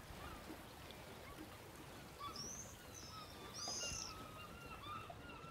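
Birds chirping over a faint, steady outdoor background hiss, with a couple of clearer high calls about two and four seconds in.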